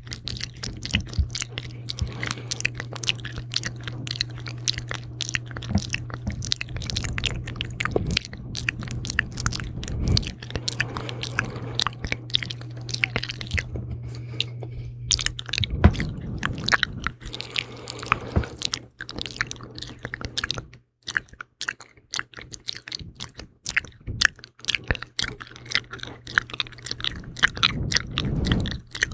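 Close-up ASMR mouth sounds: rapid, sticky, wet clicks and smacks of lips and tongue, with a few short pauses.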